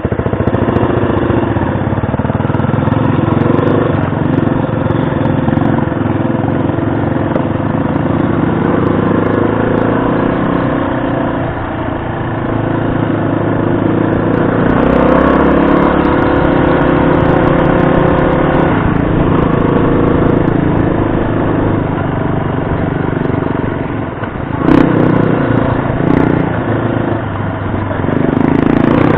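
2018 Yamaha XT250's air-cooled single-cylinder four-stroke engine running as the bike is ridden along a trail, its pitch rising and falling with the throttle. A single sharp knock sounds about 25 seconds in.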